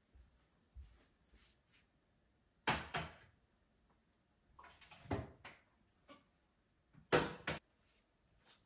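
Household handling noise: three clusters of sharp knocks and clatter, each about two seconds apart, with quiet in between.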